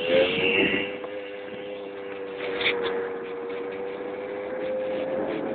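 Keeway Hurricane scooter's small engine running under way at a steady throttle, holding one even droning note.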